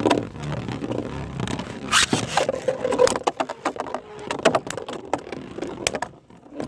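Two Beyblade spinning tops, one of them 3D-printed, whirring and clashing in a stadium: a rasping swish about two seconds in, then from about three seconds in a rapid run of sharp clicks as the tops hit each other.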